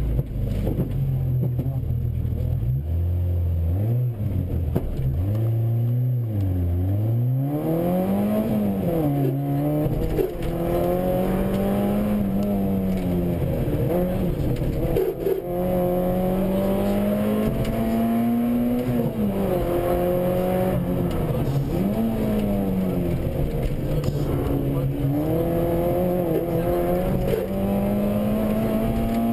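Rally car engine heard from inside the cabin. It runs low and uneven for the first seven seconds or so, then revs hard, its pitch repeatedly climbing and dropping as the car accelerates and slows.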